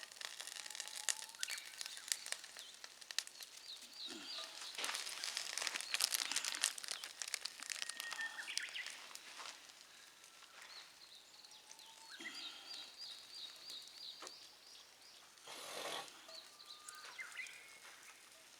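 Small birds chirping in short repeated phrases over irregular crackling and rustling.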